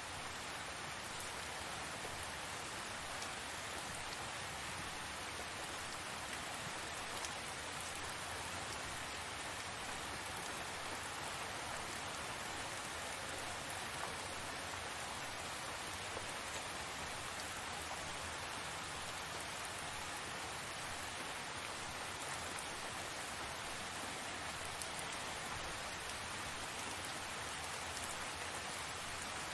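Steady heavy tropical rain falling, an even hiss with faint scattered drop ticks.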